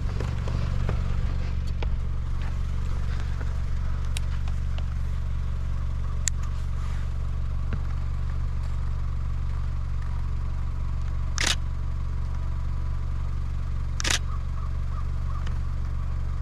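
A Canon Rebel T7i DSLR shutter firing in two short bursts, about eleven and fourteen seconds in, over a steady low rumble.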